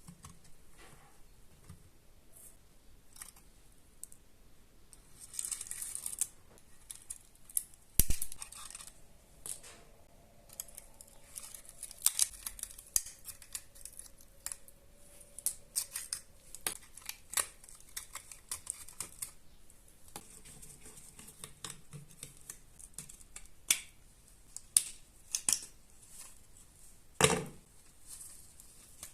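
Irregular sharp clicks and knocks with short spells of scraping, the sound of hand tools handling small metal parts. The loudest knocks come about eight seconds in and near the end.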